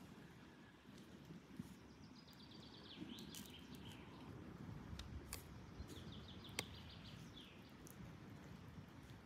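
Near silence, with a small bird trilling twice: a quick, high run of repeated notes about a second long, once about two seconds in and again about six seconds in. A few faint sharp clicks fall in between.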